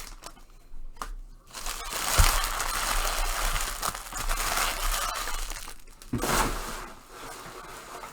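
Trading card pack wrappers being torn open and crinkled by hand: a long stretch of loud crinkling in the middle, then a shorter burst.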